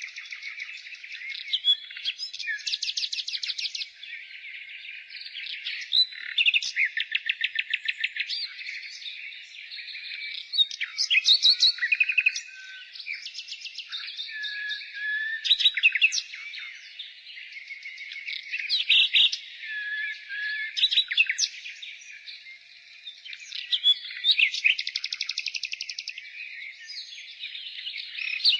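Nightingale singing: separate phrases of fast, rattling repeated notes and clear whistles, each a second or two long with short pauses between them. Faint twittering continues underneath.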